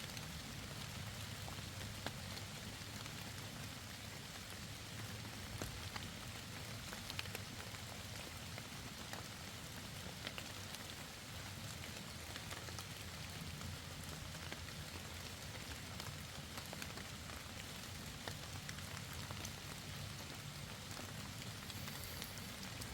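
Steady light rain falling on the woods, with scattered drops ticking on leaves and nearby surfaces.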